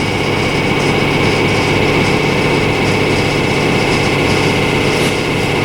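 Railway locomotive running steadily while standing, an even engine drone with a constant high whine over it.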